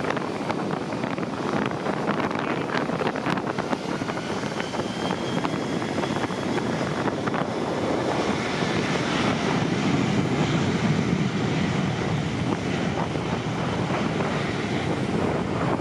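Jet aircraft engines running, heard as a steady rushing roar with a faint thin whine. The sound swells a little just past the middle.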